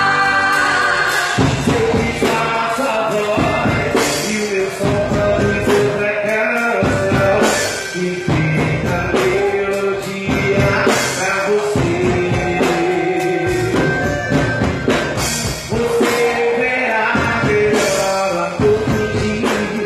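Quadrilha junina dance music: a band with singing and percussion hits.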